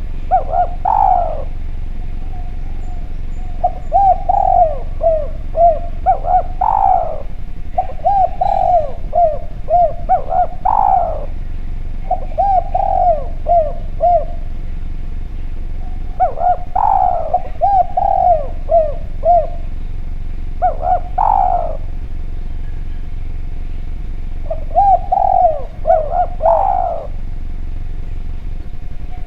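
A spotted dove (derkuku) cooing: seven phrases of several quick notes, with short pauses between them, over a faint steady hum.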